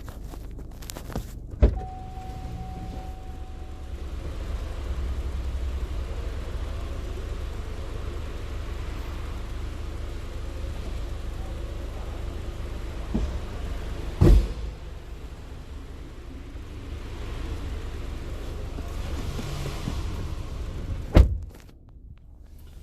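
Car engine running steadily at idle, a low rumble, with a few sharp knocks about two seconds in, midway and near the end. After the last knock the sound drops away.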